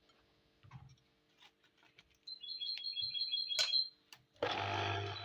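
A bird chirping in a quick, rapidly repeated trill, preceded by faint clicks and followed by one sharp click. Near the end a steady hum with a low drone starts abruptly.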